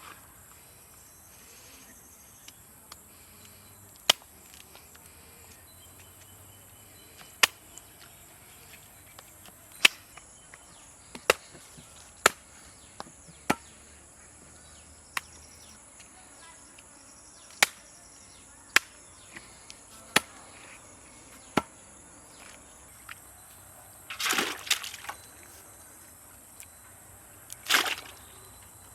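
A knife chopping through a parrot fish on a chopping block: single sharp chops every second or two, then two longer, noisier strokes near the end.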